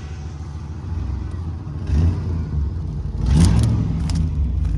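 An old GMC K2500 truck engine running through dual exhaust, revved up about two seconds in and again just past three seconds. It runs decently despite what the owner takes for a blown head gasket.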